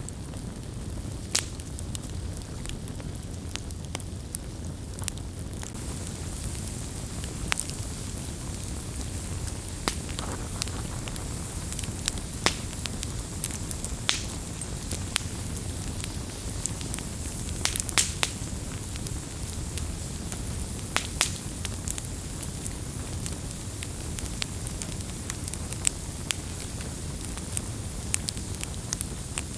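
Wood campfire burning: a steady low roar of the flames with irregular sharp crackles and pops from the burning wood every second or so.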